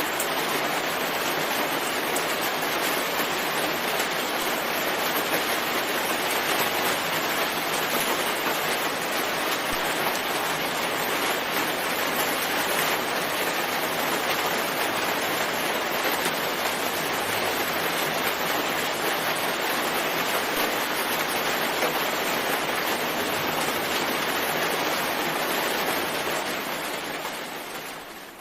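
Steady, dense rainfall, an even hiss with no distinct drops standing out, fading down over the last couple of seconds.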